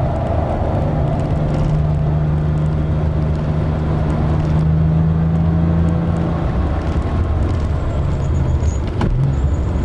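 Porsche 997 Carrera S flat-six engine heard from inside the cabin under hard driving, holding a steady note for about six seconds before the note breaks off. A sharp click about nine seconds in.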